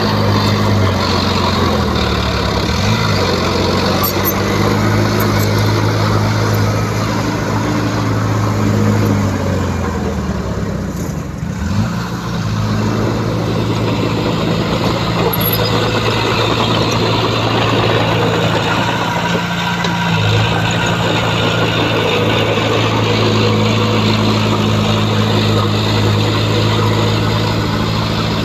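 Heavy diesel engine of earthmoving machinery running loud and steady under work. The engine note shifts down and back up a few times, with a brief dip and climb near the middle.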